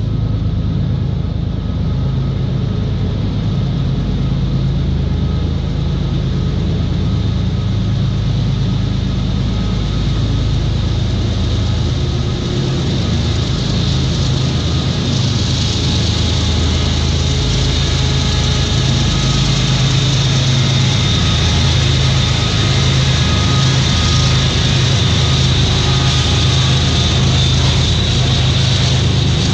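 CSX freight train's diesel locomotive running steadily as it comes out of a tunnel and passes below. About halfway through, the hiss of wheels on rail and a thin steady high tone join the engine sound, and the whole grows a little louder.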